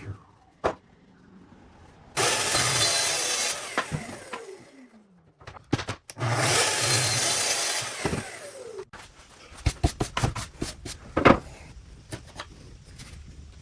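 An electric power saw makes two short cuts through wood, each lasting a second or two. After each cut the blade can be heard spinning down in a falling whine. Near the end come a series of sharp wooden knocks and clatter.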